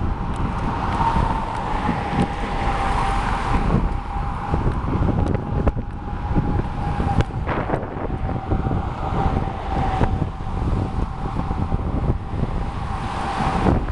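Wind buffeting the microphone of a moving bicycle, with a steady high whine and scattered sharp clicks.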